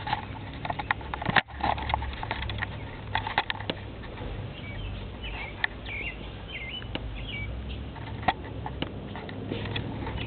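Baby birds in a rain gutter cheeping in short, high, hooked calls, clustered in the middle of the stretch, among scattered clicks and scrapes and a steady low rumble.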